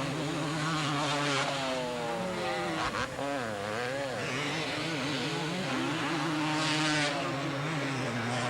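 Two-stroke motocross bikes racing, several engines revving, their notes rising and falling.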